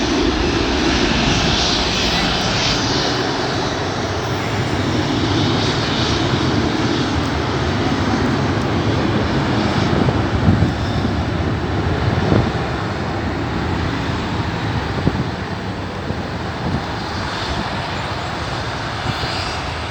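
Jet airliner engines as a plane passes near the runway: a steady, loud rush of engine noise that eases off a little about three-quarters of the way through.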